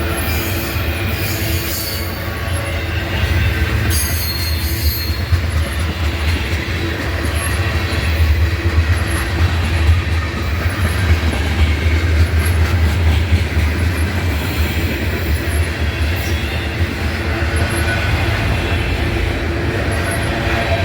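Freight train cars rolling past close by: a steady low rumble of steel wheels on rail, with brief high-pitched wheel squeals about one second and four seconds in.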